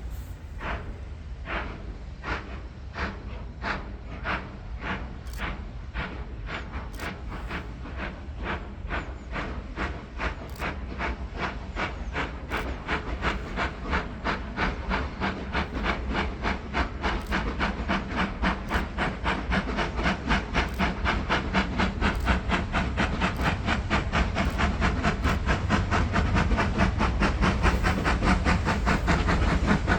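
Steam locomotive working hard, its chimney exhaust beats coming about twice a second at first and quickening steadily as it gathers speed. The sound grows louder as it approaches.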